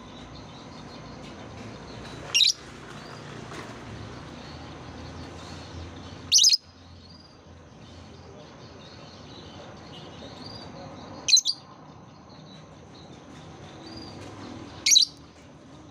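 Lovebirds calling: four loud, short, high-pitched chirps a few seconds apart, the third one doubled, over fainter chirping and a steady hiss.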